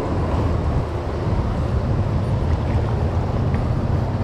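Loud, steady rush of a swollen mountain stream in spate.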